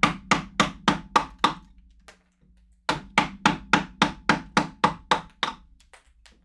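Mallet driving a wood-carving chisel into hard wood: sharp, even blows at about four a second, in two runs separated by a pause of about a second and a half.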